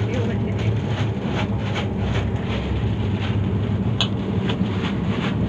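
Running noise of a moving passenger train heard from inside the coach: a steady low rumble with many light clicks and rattles, and one sharper clink about four seconds in.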